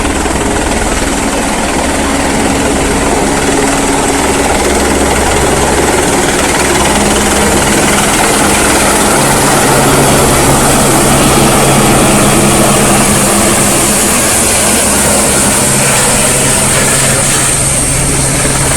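Helicopter flying low overhead, its rotor and engine running loud and steady, swelling a little around the middle.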